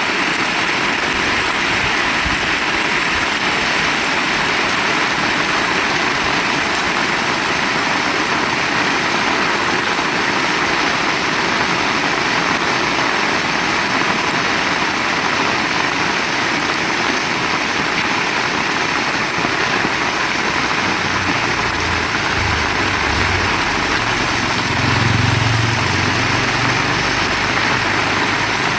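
Heavy rain falling steadily, a dense even hiss. From about twenty seconds in, a low rumble joins it underneath.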